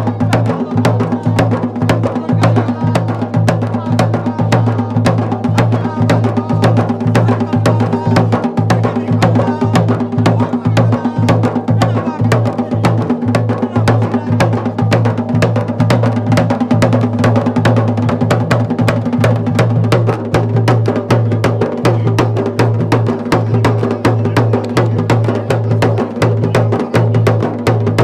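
Drums played in a fast, unbroken rhythm, many strokes a second, over a steady low drone.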